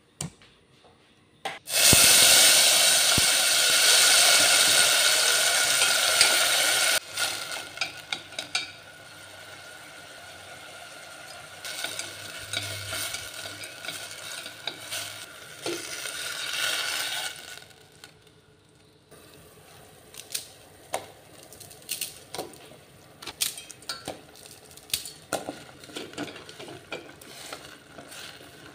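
Diced tomatoes hitting hot oil in a stainless steel pot with a sudden loud sizzle about two seconds in. The frying sizzle drops after a few seconds and carries on quieter while a utensil stirs and knocks against the pot. Later there are only light taps and clinks on the pot.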